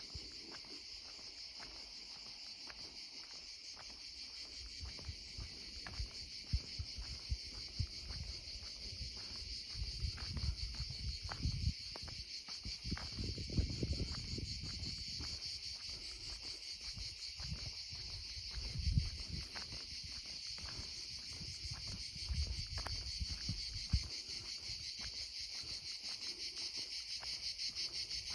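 A steady, high chorus of insects with a fine rapid pulse. Low rumbling and scattered knocks come and go through the middle.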